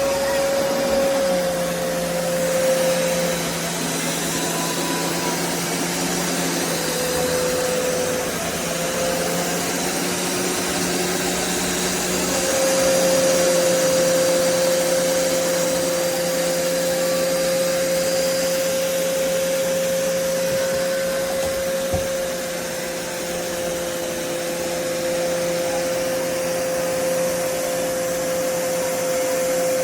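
BISSELL Revolution HydroSteam Pet carpet shampooer running, its suction motor giving a steady whine over a lower hum. The whine dips briefly in pitch about a quarter of the way in, then comes back steady.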